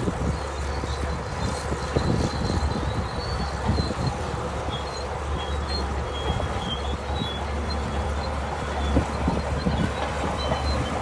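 Shantui DH17C2 crawler bulldozer working: a steady low diesel rumble, irregular metallic clanks, and short high squeals from the moving steel tracks.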